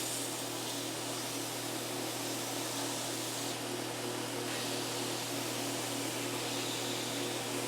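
A machine running steadily: an even hiss over a constant low hum.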